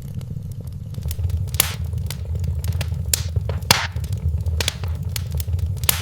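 Wood fire in a fireplace crackling over a steady low rumble, with several louder pops and snaps.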